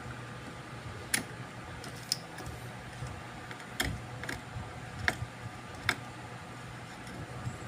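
About six sharp clicks and light taps, spaced irregularly, over a steady low hum.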